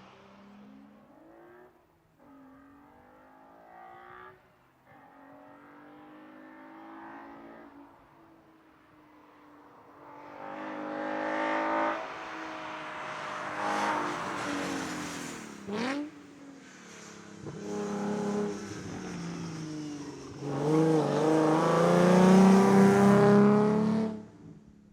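Car engines revving hard as cars accelerate past, the pitch climbing and dropping back at each gear change. The engines are faint at first and grow loud in the second half, with one sharp pitch sweep as a car goes by. The sound cuts off suddenly near the end.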